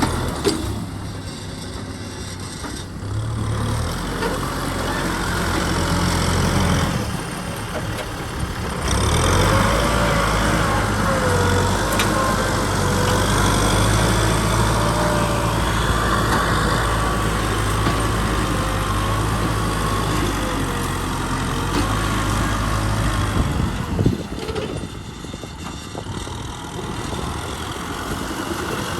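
Kubota M6040 SU tractor's diesel engine running while plowing, its note wavering and shifting with the load, then easing off and running quieter for the last few seconds.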